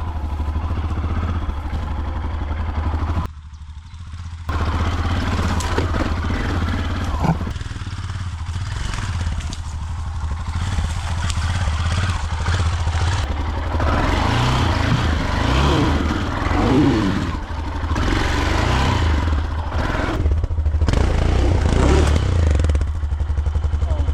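Dirt bike engine running off-road, the throttle opening and closing so its pitch rises and falls, with rushing wind noise over it. It drops away briefly about three seconds in.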